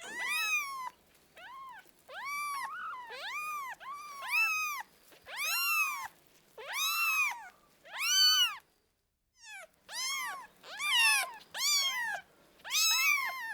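Several kittens mewing over and over, each call a short high cry that rises and falls in pitch, sometimes two at once. The sound cuts out completely for about a second, about nine seconds in.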